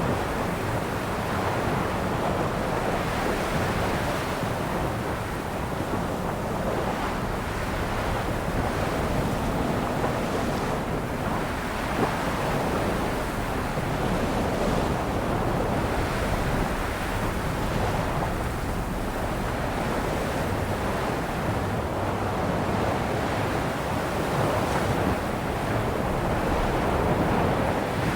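Sea waves, a steady rush of surf that swells and ebbs gently.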